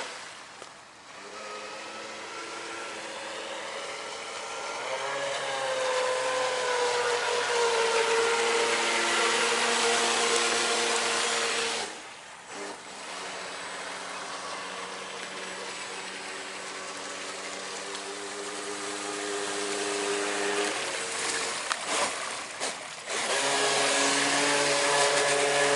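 Electric motor of a radio-controlled V-hull boat whining as it runs hard through turns, its pitch rising and falling with throttle. The whine drops away abruptly about a second in, again near the middle and twice near the end, then picks back up: the owner felt the power cut during these donuts and suspects the electronics.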